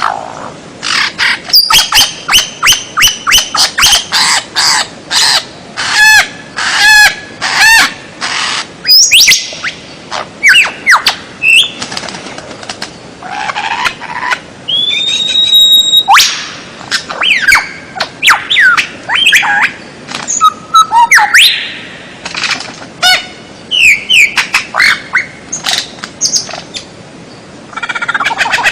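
A fast, loud run of many different bird calls: short chirps, clear whistles, trills and rising and falling notes, one after another. It is a compiled bird-song training recording (masteran) of mixed songbird calls, played to caged songbirds to teach them songs.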